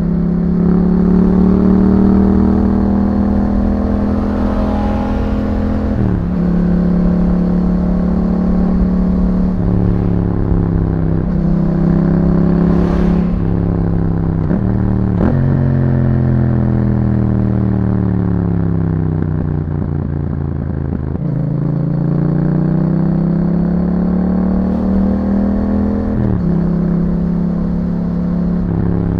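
Yamaha MT-07's parallel-twin engine running through an Akrapovic exhaust under way. The engine pitch rises and falls, with several sudden jumps at gear changes. About halfway it winds down slowly, then climbs again.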